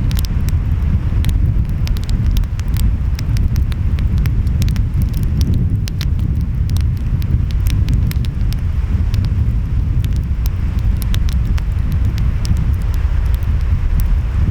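Wood fire crackling, with frequent sharp pops and snaps, over a steady low rumble of ocean waves and wind.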